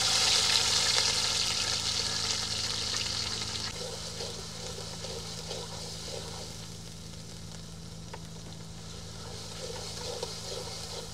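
Chopped green chilies frying in hot oil in a large metal karai, sizzling strongly at first and slowly settling to a softer sizzle. A metal spatula stirs and scrapes the pan now and then.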